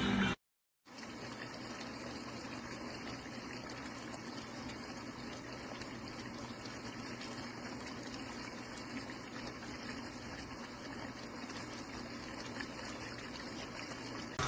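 Pool waterfall fountain running, with water cascading in a steady, even rush that begins about a second in after a brief break.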